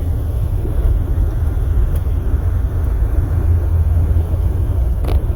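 Steady low rumble inside a Jeep's cabin with the engine running, with one faint click near the end.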